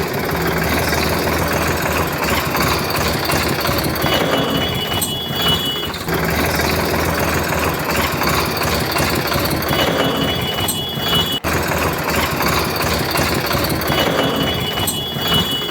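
Small electric motor of a homemade toy machine running steadily with a dense, noisy buzz.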